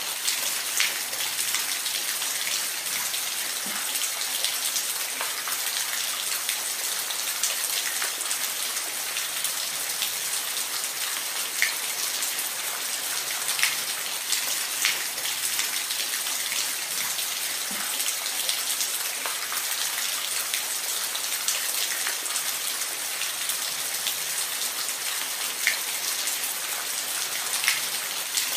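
Steady rain falling, an even hiss with a few louder single drops ticking out now and then.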